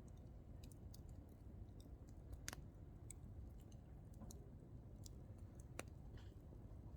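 Hardwood campfire crackling softly: scattered small ticks and pops over a low steady rumble, with two sharper pops, one about two and a half seconds in and one near six seconds.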